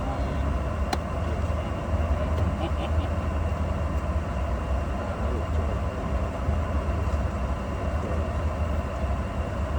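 Steady low drone and air rush inside the cabin of a Boeing 717 parked before departure, from the aircraft's air-conditioning and ventilation, with a single sharp click about a second in.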